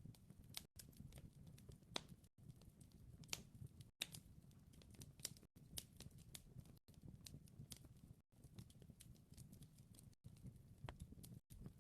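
Wood fire crackling faintly: irregular sharp pops and snaps over a low, steady rumble, broken by brief moments of silence every second or two.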